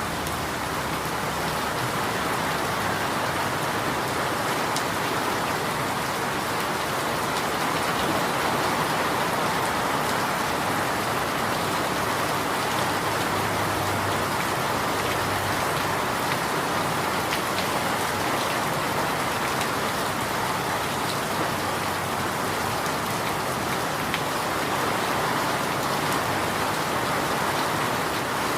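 Steady rain falling: an even hiss of rain with scattered drop ticks.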